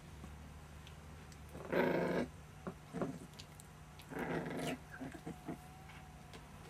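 Month-old puppies play-fighting: two short growls about two seconds apart, with small clicks and scuffles in between.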